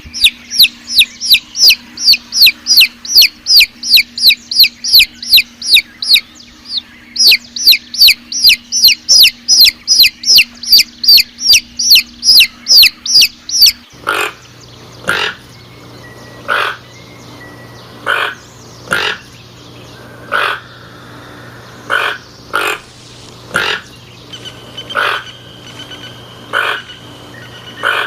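Bird calls: a rapid, loud series of high, down-sweeping chirps, about three or four a second with one short break. After an abrupt change about halfway, a series of harsh, cawing calls follows roughly once a second.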